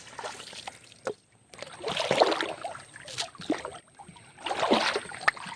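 Water sloshing and splashing in irregular swishes as a fishing net is hauled through shallow river water, with a few small knocks.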